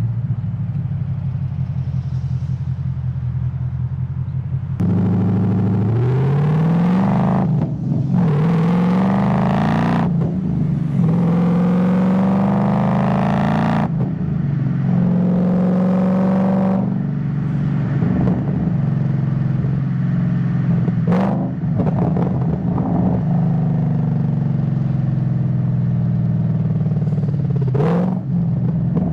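Ford Mustang GT S197's V8 engine running steadily, then about five seconds in accelerating hard, its pitch rising through a gear before each of three quick manual upshifts. It then settles to a steadier cruise.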